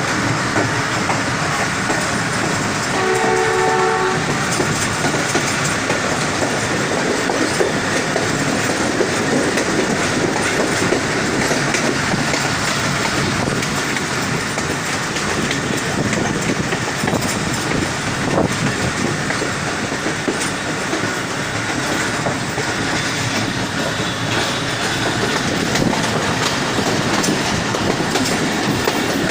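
ZCU-20 diesel locomotive and its passenger coaches running into a station, the wheels clattering steadily over the rail joints, with one short horn blast about three seconds in.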